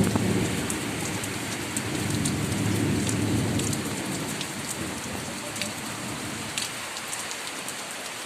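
Heavy rain falling steadily on surfaces, with scattered sharp drop ticks. A low hum sits under it for the first few seconds and then fades.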